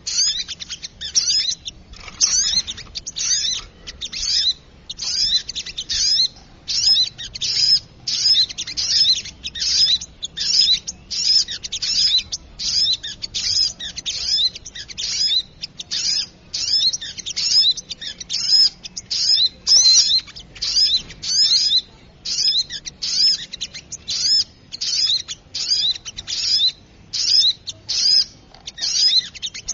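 Recorded bird-lure call of a sogok ontong, a small bird: rapid, high-pitched chattering chirps in short bursts repeated about twice a second without pause, the noisy 'ribut' call used to draw in small birds.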